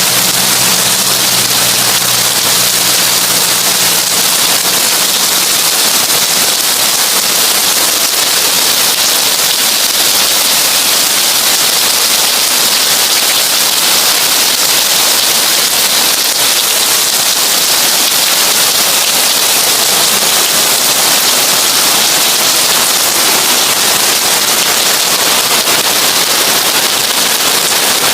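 Heavy rain falling on a tin roof, a dense steady patter of drops. A faint low hum fades out in the first few seconds.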